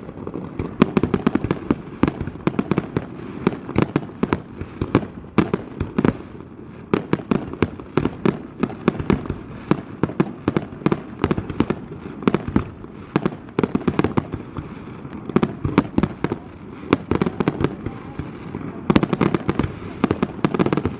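Aerial fireworks display: rapid, overlapping shell bursts and crackles, several bangs a second over a continuous low rumble, thickening into a denser volley near the end.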